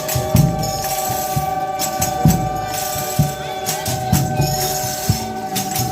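Folia de Reis music: a drum beating about once a second under tambourine jingles, with one long note held steady over them.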